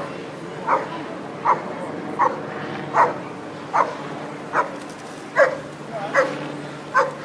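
Police dog barking steadily and insistently, about ten barks at an even pace of roughly one every three-quarters of a second, over a steady low hum.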